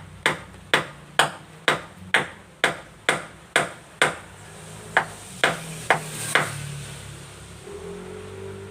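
Carpenter's hammer striking, as in driving nails into wood: evenly spaced blows about two a second, a short pause about four seconds in, then four more blows before it stops.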